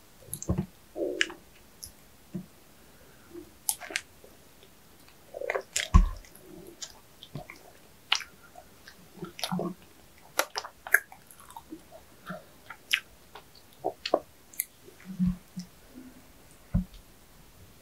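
A person eating sweets close to the microphone: irregular chewing and biting with scattered wet mouth clicks and smacks, the loudest about six seconds in.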